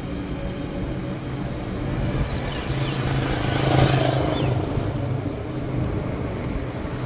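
A motor vehicle's engine running as it passes, its hum growing louder to a peak about four seconds in and then fading. A few faint bird chirps are heard.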